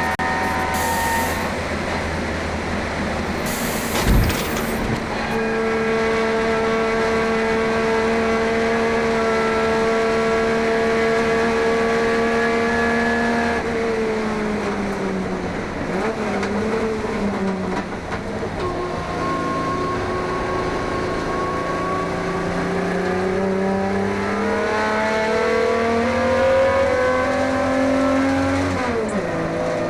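HQ Holden race car's engine running flat out at a steady pitch, then easing off as the revs fall for a corner. It then pulls hard through a gear with rising revs, cut short by a gear change near the end. A single thump comes early, about four seconds in.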